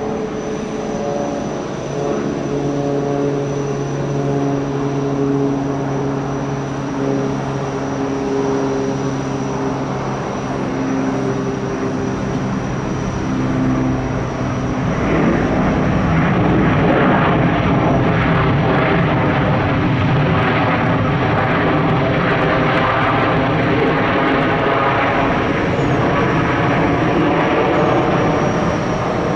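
Airbus A321 jet arriving: a steady whine of engine tones, then about halfway through a louder, broad roar with a rippling edge as the jet passes close.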